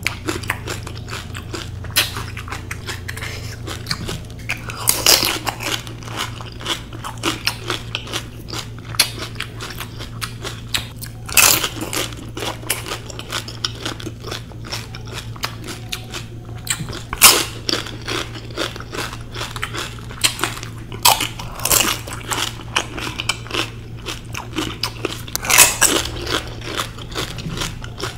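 Close-up chewing and crunching of pani puri, the crisp fried puri shells crackling between the teeth, with louder crunches every few seconds. A steady low hum runs underneath.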